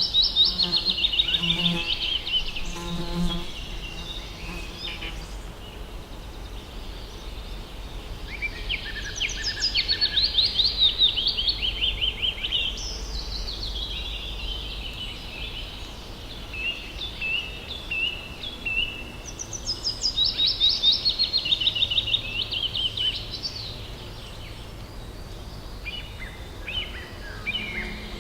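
Forest ambience: a songbird repeatedly sings a loud, fast trilled phrase that falls in pitch, several times over. An insect, such as a fly, buzzes close by during the first few seconds.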